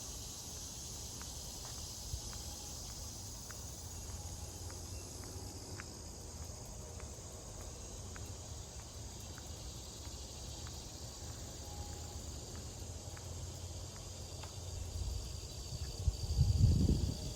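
Steady high-pitched chorus of late-summer insects, crickets or similar, over a low rumble of wind and handling noise. Near the end a louder low rustling comes in.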